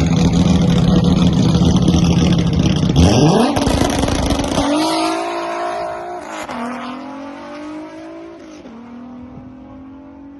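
Drag car engine held at high revs on the line, then launching: the pitch climbs, drops sharply twice as it shifts up through the gears, and fades as the car runs away down the strip.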